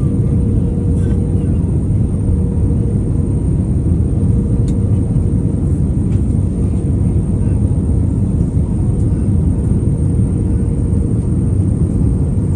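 Airliner cabin noise in flight: a steady, loud low engine drone with a constant hum.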